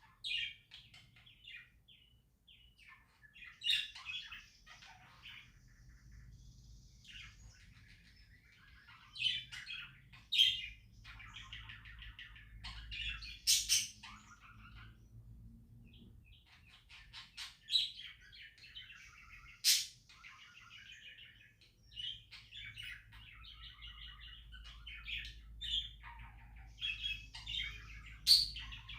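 Budgerigars chirping and chattering in irregular bursts, with a few sharp clicks standing out above the chatter.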